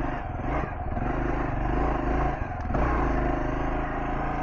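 Kawasaki KLR650S single-cylinder four-stroke engine running steadily at low revs, with a brief clack about two and a half seconds in.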